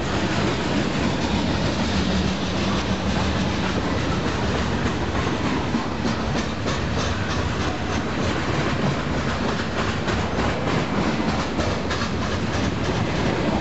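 Freight train's autorack cars rolling past close by: a steady rumble of steel wheels on rail, with clickety-clack from the wheels crossing rail joints, thickest from about six seconds in.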